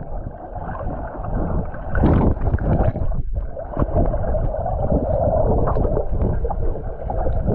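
River water rushing and splashing around a kayak, muffled, with a few sharper splashes and a brief drop-out about three seconds in.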